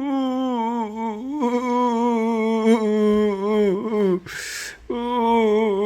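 A young child crying in long, drawn-out wails, with a sharp gasping breath in about four seconds in. This is upset crying, of a child who has turned sad.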